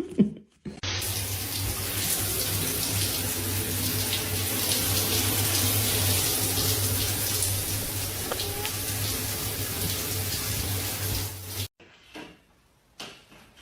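Water running steadily from a tap, an even rush with a low hum under it, lasting about eleven seconds and cutting off suddenly.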